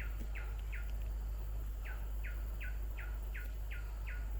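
A forest bird calling a repeated series of short, downward-sweeping notes, about two or three a second, with a pause of about a second near the start, over a steady low hum.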